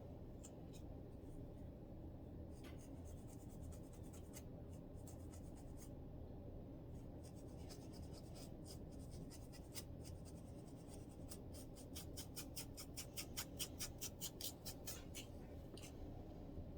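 Scratching on a dandruff-flaked scalp: short, dry scrapes, scattered at first, then a quick run of about five strokes a second for several seconds near the end, over a low steady hum.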